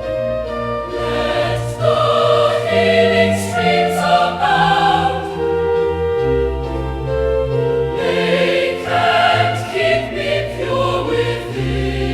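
Choir singing a hymn in long held chords over a steady bass.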